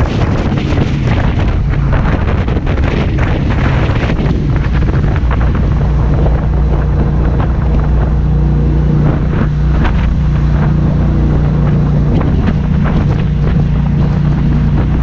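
Jet boat engine running steadily under way, with wind buffeting the microphone.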